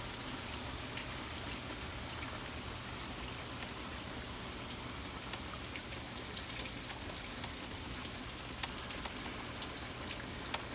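Heavy rain falling steadily, with a few sharper ticks of single drops, the loudest two near the end.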